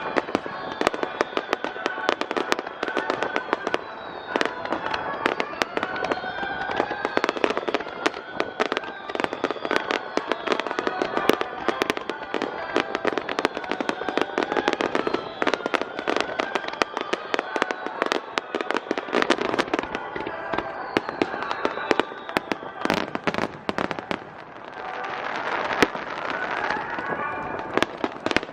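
Aerial fireworks shells bursting rapidly one after another in a dense barrage, with a thicker stretch of crackling near the end.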